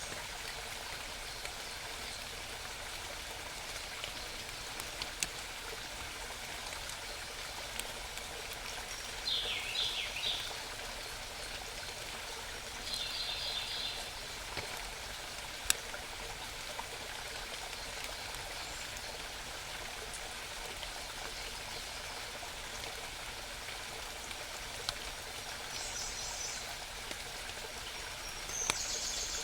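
Steady rushing murmur of a small mountain stream, with scattered wild bird calls over it: a few quick calls about ten seconds in, a short rapid trill around thirteen seconds, and high calls near the end. A few faint sharp ticks stand out now and then.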